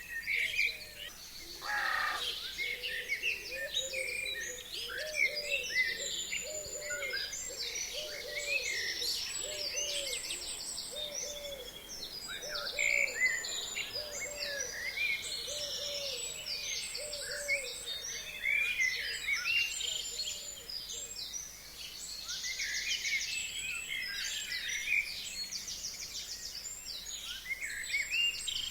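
A chorus of several forest birds singing over one another with quick high chirps and trills. Through the first two-thirds a low call repeats steadily about once a second beneath them.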